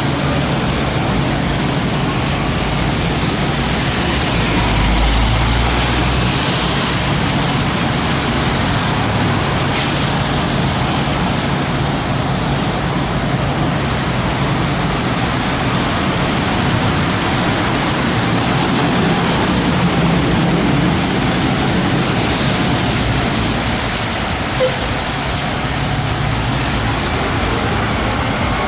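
Road traffic noise with a heavy truck's diesel engine running, its low hum steady throughout and swelling briefly about five seconds in.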